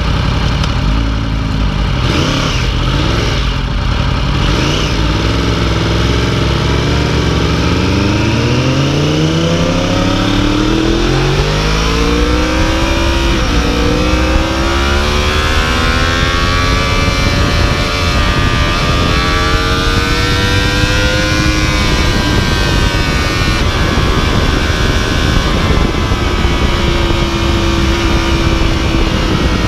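2015 Yamaha YZF-R1's inline-four engine pulling away and accelerating, its pitch rising for about ten seconds, briefly dipping at a gear change, then climbing more slowly and settling to a steady cruise, with wind noise throughout.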